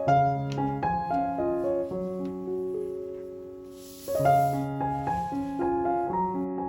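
Gentle solo piano background music, single notes and chords struck and left to ring away. The music thins out and fades a little past the middle, and a new phrase starts about four seconds in.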